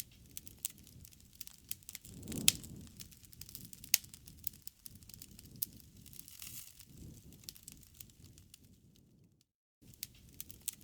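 Campfire crackling: a steady low rush of burning wood with frequent small crackles and occasional sharp pops, the loudest two about two and a half and four seconds in. The sound drops out completely for a moment near the end.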